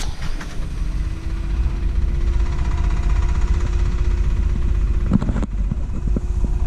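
A motor vehicle's engine running with a low rumble and a steady whine that creeps up slightly in pitch, then drops away about five and a half seconds in.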